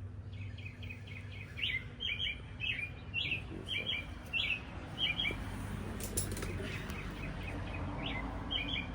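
A small songbird chirping in a quick series of short, repeated notes, pausing and then starting again near the end. A single click about six seconds in.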